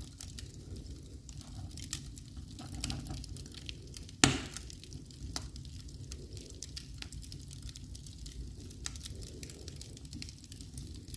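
Wood fire burning in a fireplace: scattered small crackles over a low steady rumble, with one loud pop about four seconds in.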